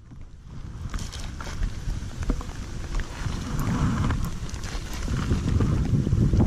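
Wind buffeting the microphone outdoors, a low rumbling that grows louder, with scattered small knocks and clicks.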